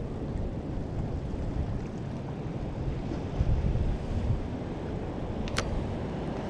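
Wind buffeting the microphone, a low rumble that swells in gusts, over the wash of the sea below. A single sharp click about five and a half seconds in.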